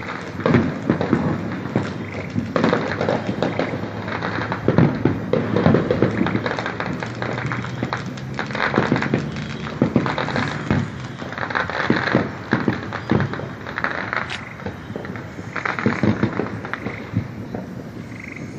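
Fireworks going off in quick succession: a dense, continuous run of crackles and bangs.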